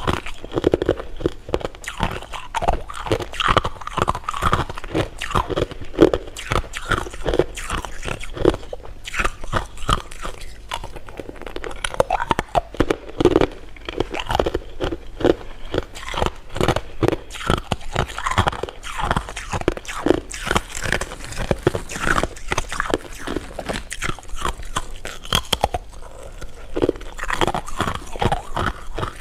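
Close-miked eating sounds: continuous chewing and biting of sweets, a dense run of short crunching and clicking sounds with no pause.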